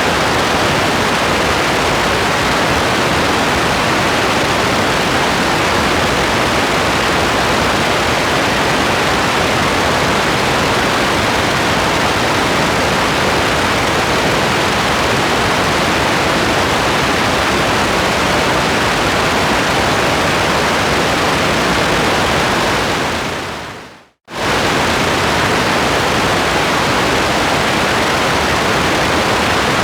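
Steady heavy rain as one dense, even hiss with no separate drops to pick out. About 24 seconds in it fades out quickly to a moment of silence, then cuts straight back in, the seam of a looped recording.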